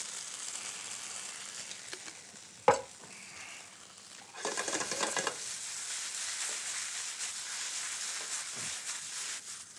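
Shredded jackfruit sizzling in a sauté pan under a coating of barbecue sauce, with one sharp knock about two and a half seconds in. From about four and a half seconds the sizzle grows louder and rougher as the pan is worked on the burner.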